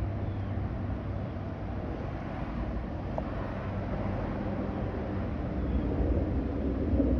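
Steady low rumble with a faint hum, growing louder near the end, and one faint short tick about three seconds in.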